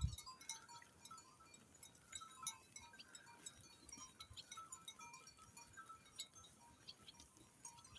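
Faint twittering of swallows: a scattered run of short, high chirps, with a few soft clinks among them.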